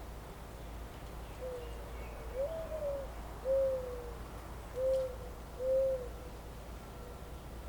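A bird giving a series of low, hollow cooing calls. One note slurs up then down, followed by three evenly spaced coos that end about six seconds in.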